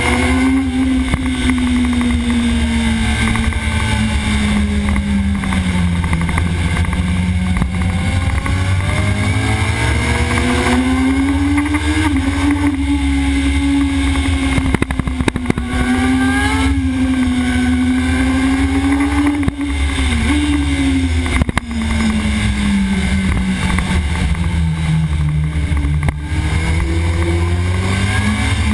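Onboard sport-bike engine running hard at track speed, its pitch easing down over the first few seconds, climbing and holding through the middle, sagging again later and rising near the end, over a heavy low rumble. Short breaks in the sound come around two-thirds of the way through.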